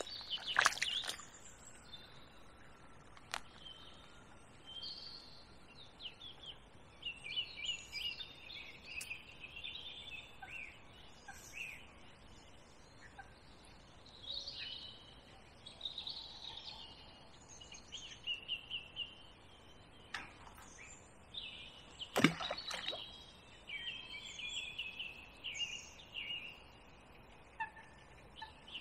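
Songbirds singing in a string of short, varied phrases, with a few faint clicks and one sharper knock about three-quarters of the way through.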